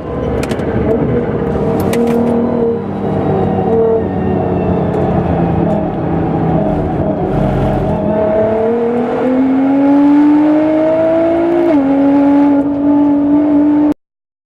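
Nissan GT-R R35's twin-turbo V6 running hard on track. The revs climb steadily, then drop sharply in a gear change about twelve seconds in. The sound cuts off abruptly just before the end.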